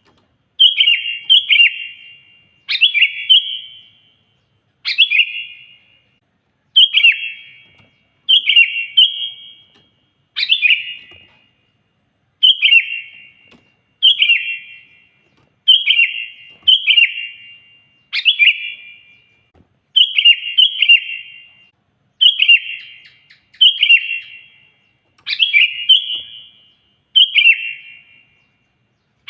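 Sooty-headed bulbul (kutilang) singing loudly and without pause, repeating a short chirpy phrase about every two seconds, each phrase opening with a sharp note and tumbling down in quick falling chirps.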